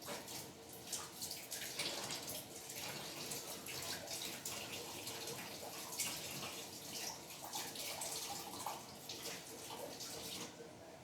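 Water running from a kitchen tap into the sink with irregular splashing as hands are rinsed under it, to get dough off the fingers. The tap is turned on at the start and shut off shortly before the end.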